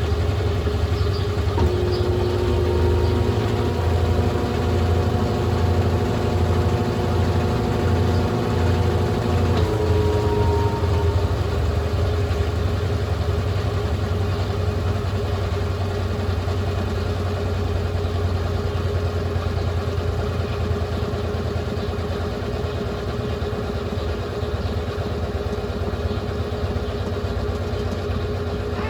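Brastemp Ative 11 kg washing machine running: a steady motor hum with several held tones that change about ten seconds in, leaving one tone over the hum, which then eases off slightly.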